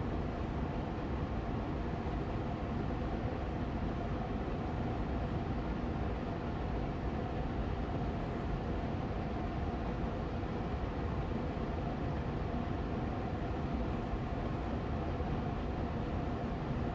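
Air purifier fan running steadily on medium speed: an even, low rushing hum of moving air with a faint steady tone in it.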